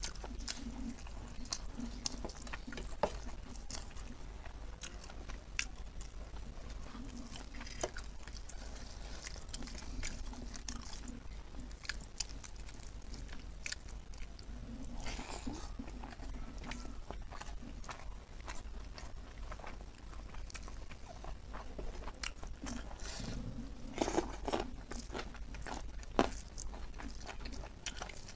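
Close-up chewing and mouth sounds of a person eating curried pork leg and rice by hand: wet smacks and sharp clicks scattered throughout, with a steady low hum underneath.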